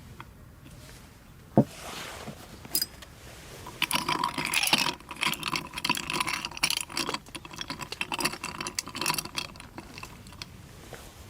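Metallic clinking and clattering: a couple of single clicks, then about six seconds of quick, irregular strikes and rattling.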